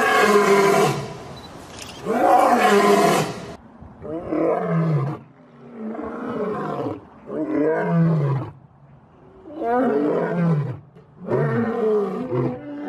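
An animal roaring in a series of calls: two long, loud calls, then shorter calls about every two seconds, each falling in pitch.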